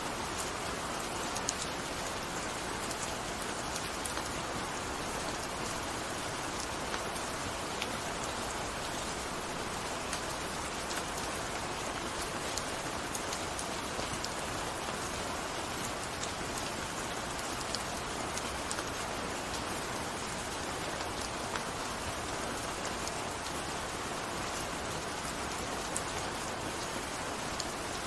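Steady gentle rain falling, an even hiss with many small drop ticks.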